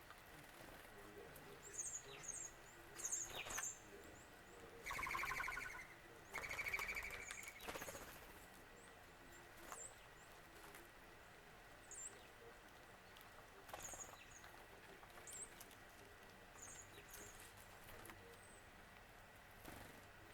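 Wild birds calling: short, very high chip notes scattered throughout, with two louder trilling calls about five and seven seconds in.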